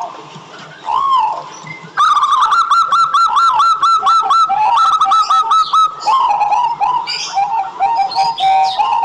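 Zebra dove (perkutut) cooing. There is a single arched coo about a second in, then from about two seconds a fast run of short arched coos, several a second, which turns into lower, choppier notes near the end.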